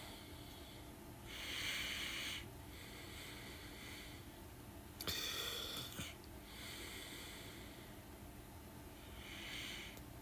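A person breathing faintly close to the microphone: five soft, airy breaths, each about a second long, with a small click about six seconds in.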